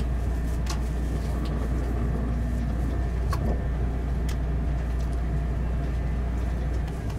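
Low, steady rumble inside the cabin of a Seibu 001 series Laview express train as it rolls slowly along the terminal platform to stop, with a few light clicks.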